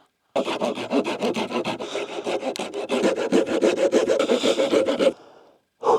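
Hand saw cutting through wood in quick, even strokes for about five seconds, stopping abruptly, with one short scrape near the end.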